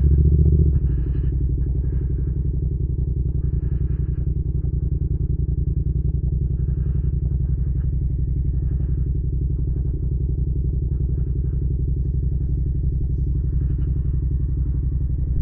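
Yamaha MT-07's parallel-twin engine running steadily as the motorcycle is ridden, a little louder in the first second.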